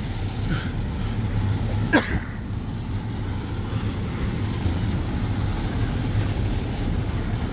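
Steady low rumble of an idling vehicle engine, with one brief sharp squeak that drops quickly in pitch about two seconds in.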